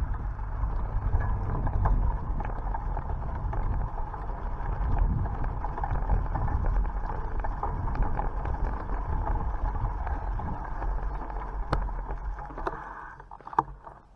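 Bicycle ride noise: wind rumbling on the microphone and tyres rolling on the road, with scattered light ticks. It dies away about a second before the end, with a sharp click as it fades.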